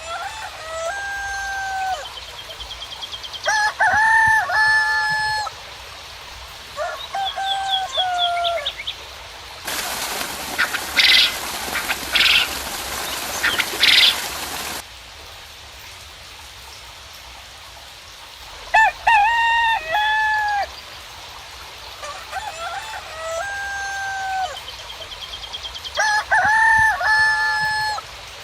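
Roosters crowing again and again, each crow a held, flat-toned call, with small birds chirping in short trills over a steady hiss of rain. About ten seconds in, a harsh burst of noise lasts about five seconds.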